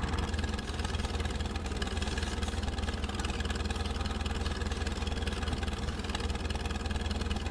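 Tractor engine idling steadily, a low even diesel-style hum that cuts in suddenly and stops just as suddenly.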